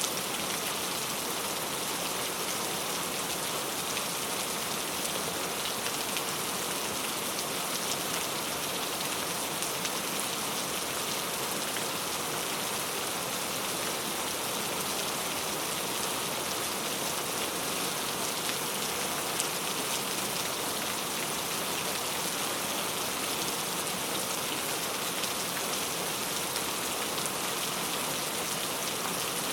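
Heavy rain falling steadily on mango tree leaves: a dense, even hiss with many small drop patters.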